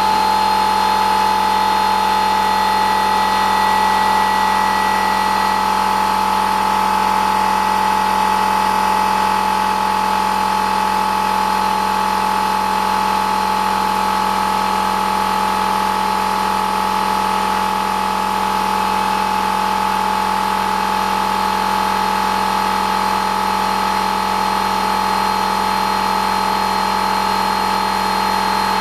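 Air compressor running steadily and loudly, its motor holding one even hum with no change in pitch.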